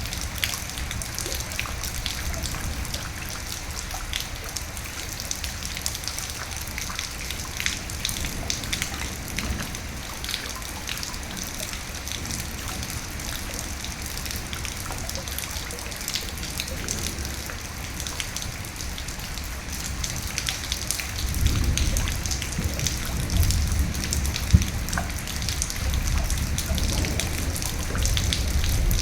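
Steady rain with many distinct drops pattering. About two-thirds of the way through, a low rolling rumble of thunder builds and carries on under the rain.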